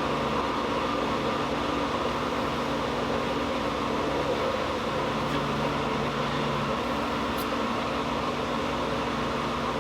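Blacksmith's forge running steadily: an even rushing noise with a low hum underneath, and no hammer blows.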